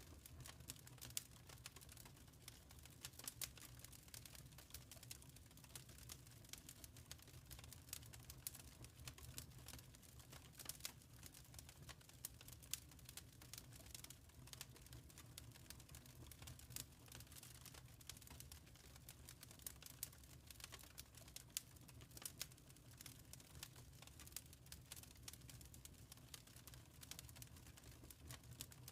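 Wood fire crackling softly in a fireplace: irregular small pops and snaps over a low steady rumble.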